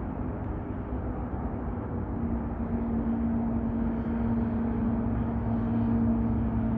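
Jet aircraft engines overhead: a steady low rumble that grows slowly louder, with a steady hum coming in about two seconds in.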